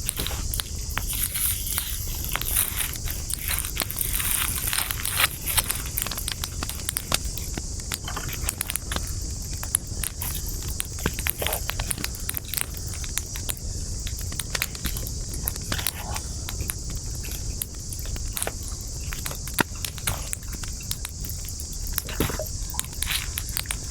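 Wood campfire crackling with many sharp pops and snaps at irregular moments, over a steady hiss.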